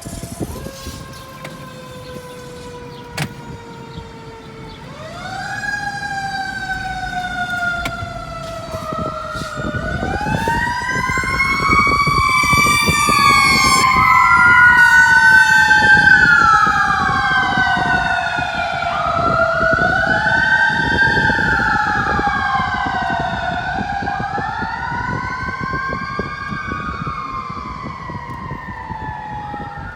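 Fire truck sirens on a responding apparatus. A siren slowly falls in pitch, then from about five seconds in overlapping wails rise and fall. They grow loudest about halfway through and fade toward the end, over a low rumble of engine and road noise.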